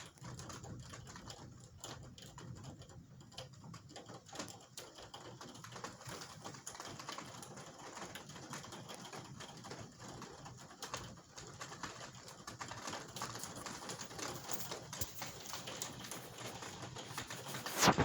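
Raindrops tapping irregularly in light, quick ticks during a thunderstorm, growing slightly louder toward the end.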